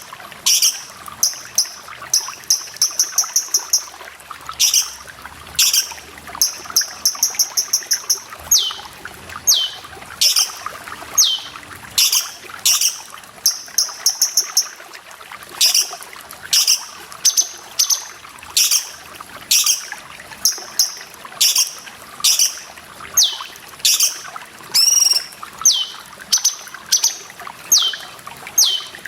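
Cucak cungkok calling over and over: sharp high single notes, short runs of rapid chattering, and from about a third of the way in, many quick downward-sliding whistles. A steady trickle of running water goes on underneath.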